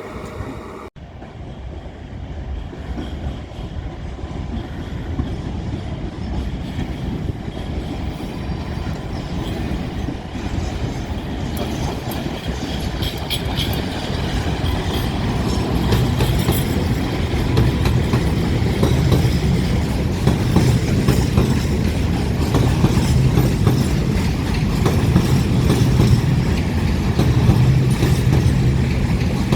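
Train running along the track, its wheels clattering over the rails, growing steadily louder as it approaches. There is a brief dropout about a second in.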